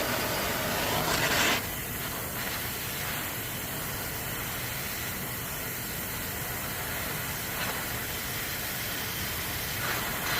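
Gas torch flame hissing while melting the head off a seized bolt. The hiss is louder for the first second and a half, then drops suddenly to a steadier, softer hiss.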